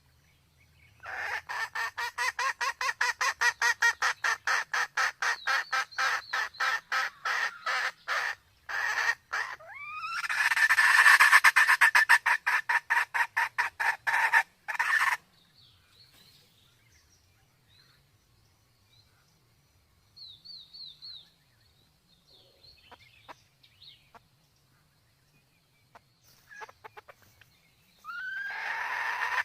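Sumatran red junglefowl calling: a long fast run of short clucks, about five a second, then a louder rising call about ten seconds in that carries on into more clucks. Scattered soft chirps follow, and the fast clucking starts again near the end.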